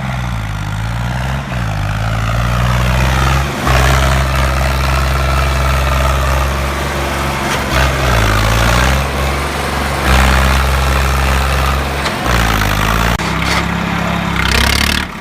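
Tractor engine running hard under load, its low pitch sagging and recovering several times.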